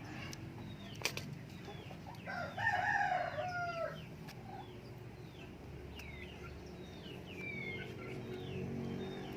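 A rooster crows once, about two seconds in, for about a second and a half, while small birds chirp over and over with short falling notes. A sharp click comes about a second in.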